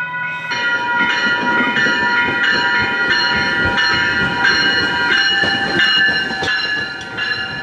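Passenger train at the platform: a ringing sound repeating about two or three times a second over steady high tones and a low rumble.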